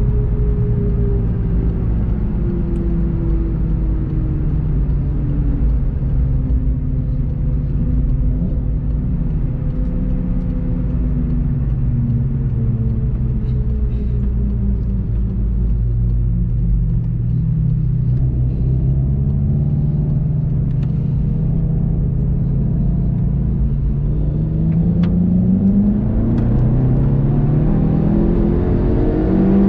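VW Golf 7 GTI TCR's turbocharged 2.0-litre four-cylinder engine heard from inside the cabin on track, its note falling slowly for the first half as the car slows for a corner. It then rises steadily through the second half as the car accelerates hard out of it.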